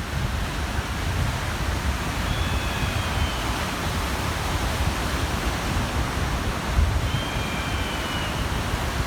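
Small waves washing on the shore under a steady wind, with wind buffeting the microphone in an uneven low rumble. Two faint, brief high calls, one about two seconds in and one about seven seconds in.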